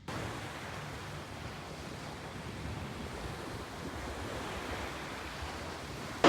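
Ocean surf washing onto a beach, with wind on the microphone: a steady rushing noise.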